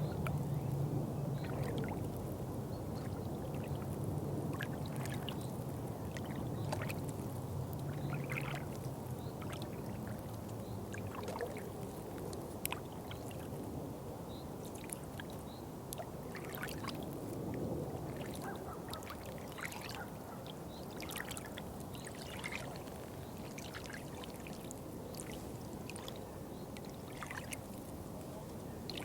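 Water trickling and pouring, a steady babble with many small splashes and drips on top. A low rumble underneath fades out over the first ten seconds or so.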